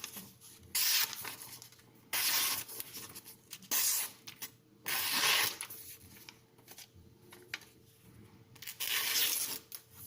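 A freshly micro-bevelled knife edge slicing through paper in about five short hissing strokes, a sharpness test of the new edge.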